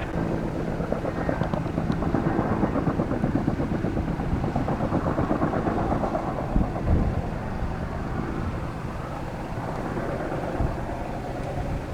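An engine running steadily: a low hum with a fast, rough pulsing.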